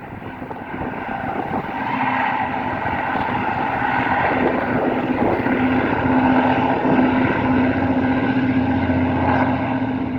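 Diesel locomotive of a freight train running past, a steady engine drone with a held tone that grows louder over the first two seconds.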